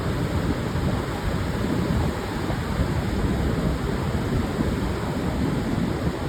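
Pacific surf washing onto a sandy beach, with wind buffeting the microphone: a steady, deep rumbling wash with no single wave standing out.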